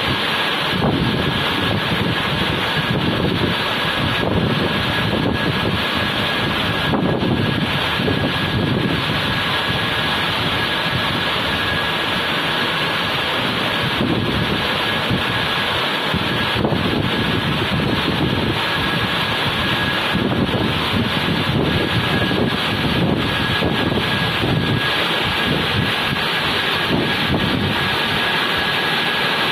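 Automatic car wash machine running under test: a steady, loud mechanical noise with a constant high whine held throughout.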